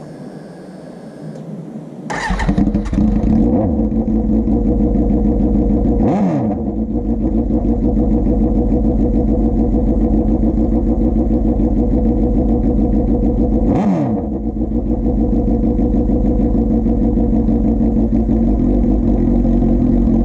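2005 Suzuki GSX-R 750's inline-four engine running with its exhaust silencer removed. It starts about two seconds in, then idles loudly, with two brief throttle blips at about 6 and 14 seconds.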